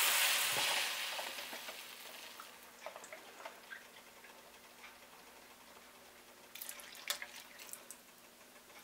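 Grated carrots in hot ghee sizzling just after cold milk is poured in, the sizzle dying away over the first couple of seconds as the milk cools the pan. After that it is nearly quiet, with a few faint clicks near the end.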